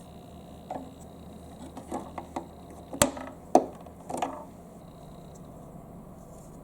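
Marbles rolling and clacking down a marble-run track: a scatter of irregular clicks and knocks over a faint steady hum, with the loudest knocks about three and three and a half seconds in.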